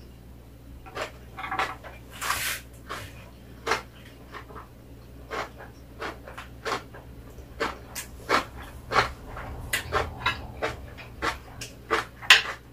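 Close-up eating sounds: food being chewed with wet lip smacks and mouth clicks, a string of short sharp smacks a few per second, with a longer slurp about two seconds in. Near the end a metal spoon scrapes and clinks on a plate.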